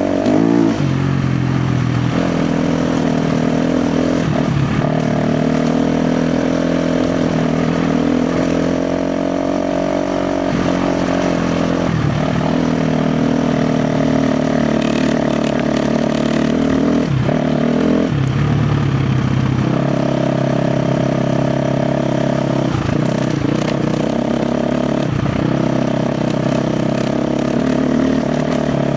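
KTM 350 XC-F four-stroke dirt bike engine running under load on a trail ride, the revs rising and falling with the throttle. Brief knocks and clatter break in now and then as the bike goes over rocks.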